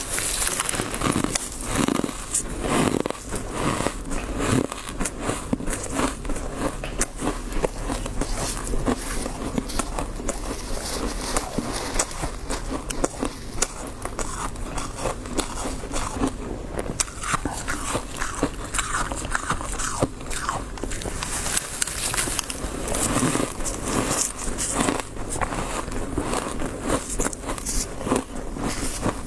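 Someone biting and chewing soft frost close to the microphone: a dense, unbroken run of crunches and crackles.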